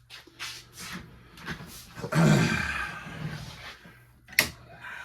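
Handling noises on a workbench: rustling and light knocks of parts being moved, with a louder scraping clatter about two seconds in and a sharp click near the end.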